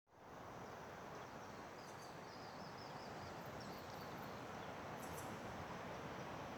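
Faint steady outdoor background rush with a few faint high bird chirps, and brief high ticks from birds or insects near the middle.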